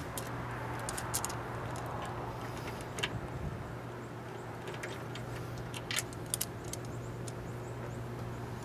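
A few light clicks and rattles of small parts being handled, over a steady low hum.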